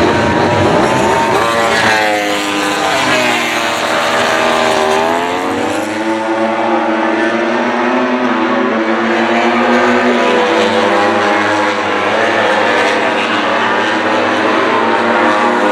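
Several racing motorcycle engines at high revs, passing in a group with their notes overlapping. The pitch sweeps down about two to five seconds in as bikes go by, and more bikes keep coming through.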